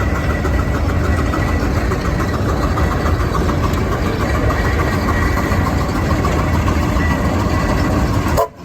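Steam traction engine running steadily under load while pulling a plow, with a fast regular beat. The sound drops out briefly near the end.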